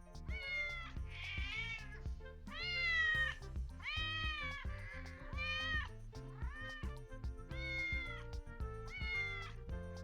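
Domestic cat meowing repeatedly, about nine drawn-out meows in a row, over background music.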